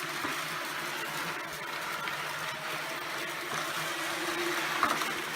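ILIFE A4 robot vacuum cleaner running, a steady whirr of its suction fan and brushes as it picks up debris, with one sharp click near the end.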